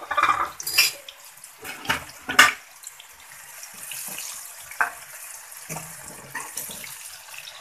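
Sliced onions sizzling in hot oil in a metal kadai. A spoon stirring them scrapes and knocks against the pan several times, loudest about two and a half seconds in.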